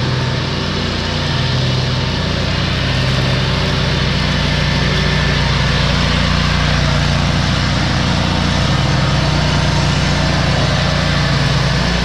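Engine of a Hustler Raptor SD zero-turn mower running steadily at working speed while its deck mulches pine straw, the discharge chute blocked off.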